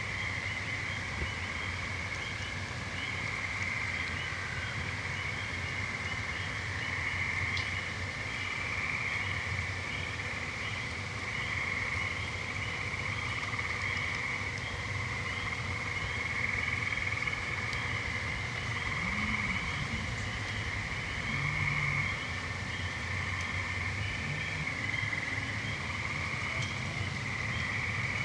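Continuous chorus of trilling frogs and toads, a steady high trill that swells and fades a little.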